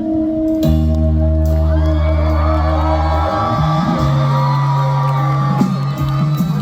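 Loud live pop-rock band music played through a concert PA, with sustained bass notes, a drum crash about half a second in, and singing voices above it.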